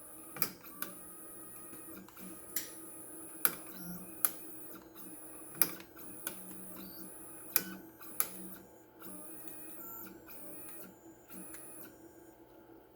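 Onefinity CNC's stepper motors jogging the gantry in short moves, a high whine starting and stopping in stretches over a steady hum, with a dozen or so sharp clicks at irregular intervals.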